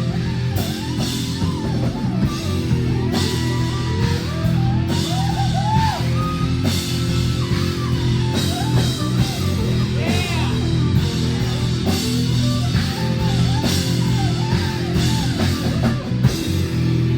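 A live rock band playing an instrumental stretch with electric guitar and drum kit, cymbals hitting at a regular beat over sustained low notes.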